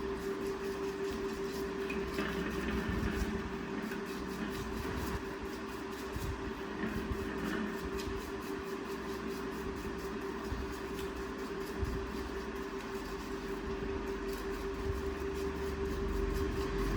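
A motor running steadily, with one constant hum over a hiss.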